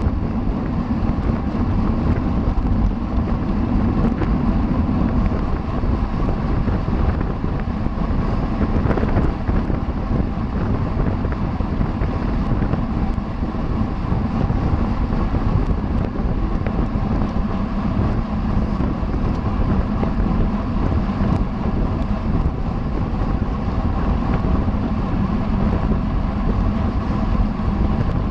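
Wind rushing over the microphone of a camera carried on a racing bicycle at speed: a loud, steady, low rumble with no break.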